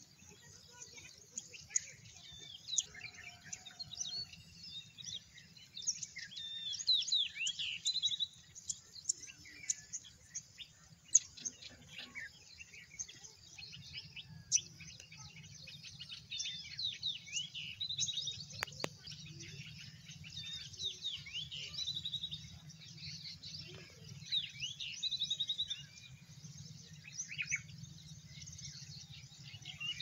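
Several wild birds chirping and calling, with many short sweeping notes and a few quick trills, over a faint steady low rumble.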